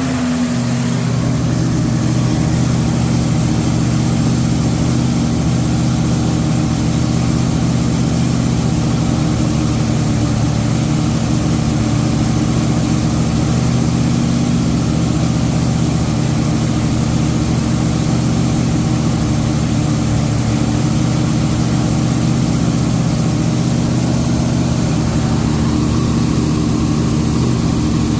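Dodge 440 Magnum V8 engine in a 1973 Charger running steadily during its break-in, settling from a rev to an even, unchanging speed about a second in.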